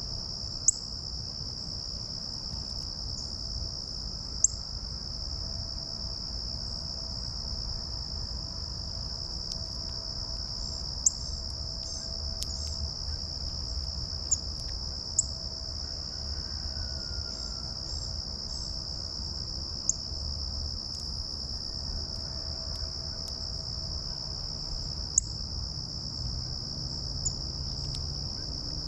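Insects buzzing in one steady, unbroken high drone, with a low rumble of breeze underneath. About ten sharp clicks come at irregular moments, and a few faint bird chirps sound around the middle.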